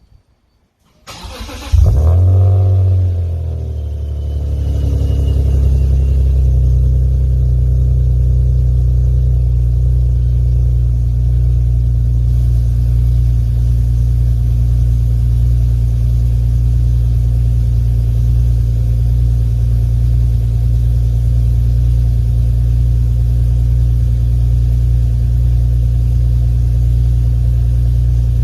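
Car engine cold start: the starter cranks briefly about a second in, the engine catches with a loud flare of revs, dips, then rises a little and settles into a steady idle.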